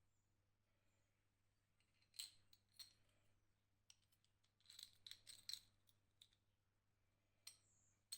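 Faint, scattered light metallic clicks and clinks of small parts being handled, with a quick run of them in the middle.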